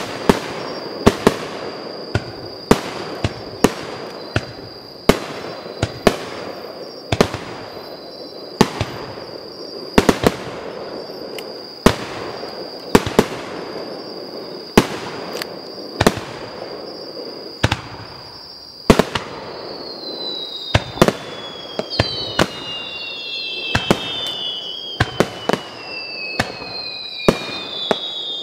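Aerial firework shells bursting in a steady barrage: sharp bangs about once a second over a continuous rumble and crackle. From about twenty seconds in, several whistles glide down in pitch between the bangs.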